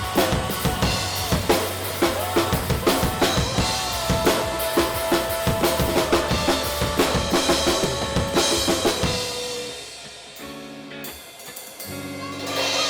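Drum kit played along to a recorded rock song: rapid kick, snare and cymbal hits over the track's melody, stopping about nine seconds in as the music drops to quieter held tones.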